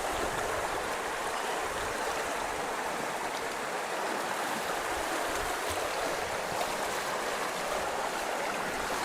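Fast-flowing creek water rushing steadily, an even wash of water noise with no single splashes standing out.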